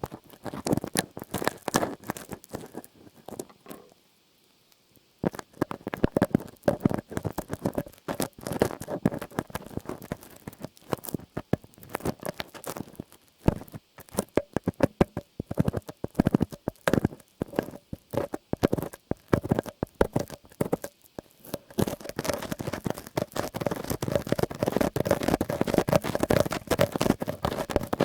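Close-up ASMR trigger sounds: rapid irregular clicks and scratching, with a brief pause about four seconds in. Near the end they merge into a denser, continuous rubbing.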